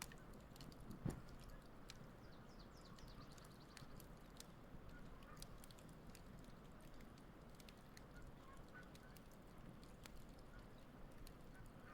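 Wood fire crackling softly with scattered small, sharp pops, one louder pop about a second in, over a low steady hiss of burning.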